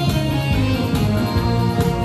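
Trot backing track playing between sung lines: guitar-led accompaniment with a steady beat.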